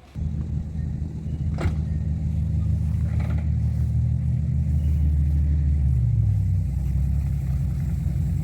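Fordson Major tractor engine running steadily at a low, even pitch. It cuts in abruptly right at the start, and there is a single sharp click about a second and a half in.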